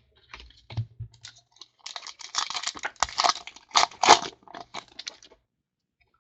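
Trading card packs being opened and gone through by hand: a quick run of crinkling wrapper noise and clicking cards, dying away about five seconds in.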